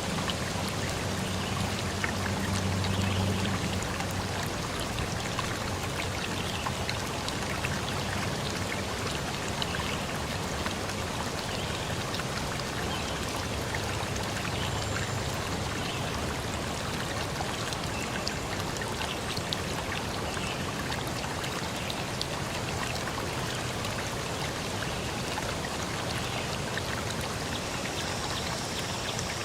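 Steady rush of water in nature, with many small drips and patters throughout. Near the end a steady high-pitched tone joins in.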